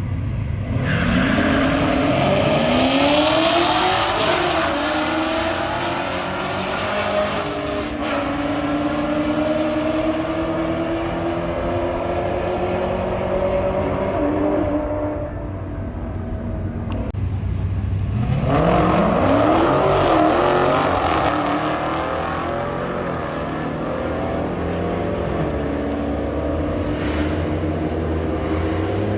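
Car engine accelerating hard, its pitch rising as it revs up, then running on at speed; a second hard acceleration follows about two-thirds of the way in.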